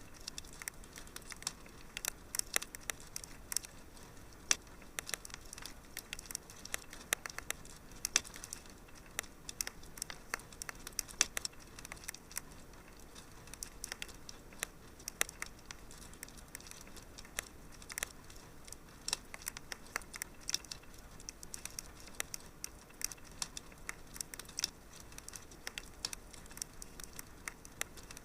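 Wood fire crackling in a fireplace: a steady stream of irregular sharp pops and snaps over a faint low hiss.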